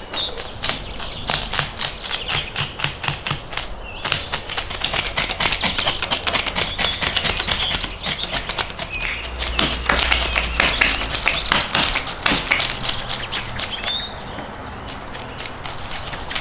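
Rapid knife strokes, a dense run of sharp taps several a second, with short pauses between runs.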